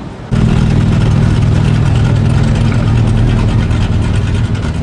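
A loud car engine and exhaust running steadily with a deep, even note, cutting in abruptly just after the start.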